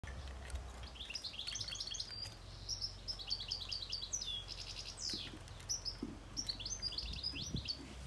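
Songbird twittering: quick runs of short high chirps in several bursts, with one longer falling note about five seconds in.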